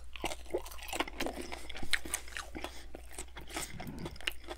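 A strip of bacon being bitten into and chewed close to the microphone, with many irregular crunches and crackles.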